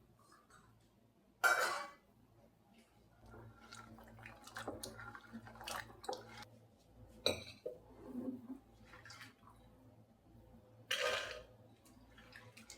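Kitchen handling sounds: dishes and utensils being knocked and set down. There are two louder clatters, about a second and a half in and near the end, with scattered light taps between.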